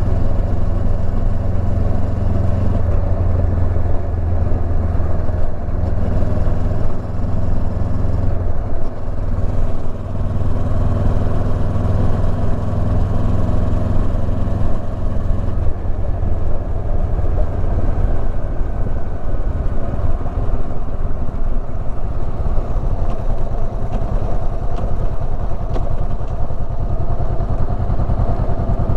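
Honda CB500X's parallel-twin engine running under way. The engine note shifts about eight seconds in and again halfway through.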